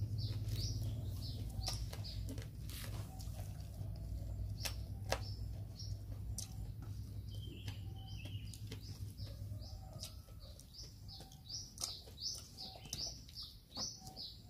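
A small bird chirping over and over, short high notes about three a second, with a low hum that fades out about ten seconds in. Scattered sharp clicks and smacks from people eating by hand.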